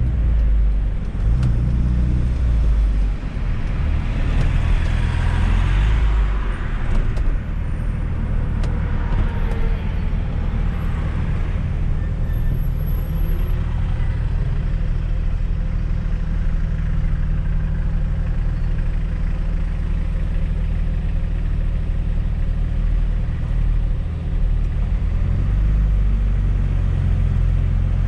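Fiat Coupe 16V Turbo engine running under way, a steady low drone at a fairly constant speed. A rushing noise rises over it for several seconds about four seconds in, and the engine note shifts near the end.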